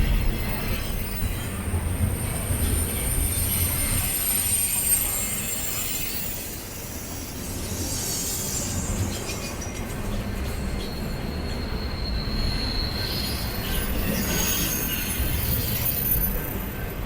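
BNSF intermodal freight train rolling past: a steady low rumble of the train, with thin high-pitched wheel squeals coming and going over it.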